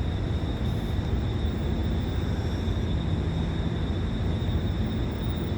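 Steady low rumble of an MRT train with a thin, steady high-pitched whine above it.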